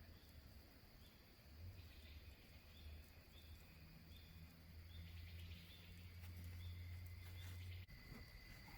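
Faint outdoor ambience: a steady low rumble with a row of short, high chirps repeating at an even pace through the middle.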